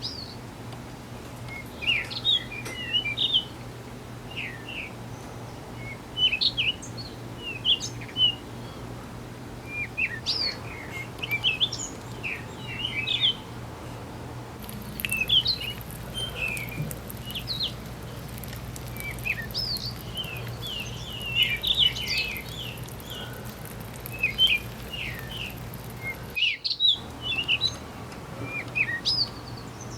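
Small birds chirping in quick clusters of short, high notes over a steady low hum. The sound drops out briefly near the end.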